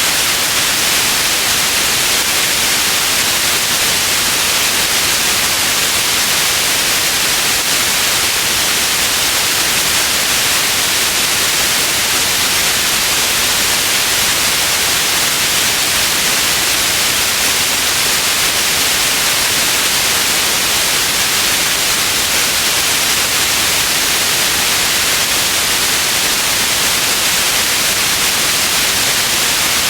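Steady, unchanging white noise, a continuous hiss strongest in the upper frequencies.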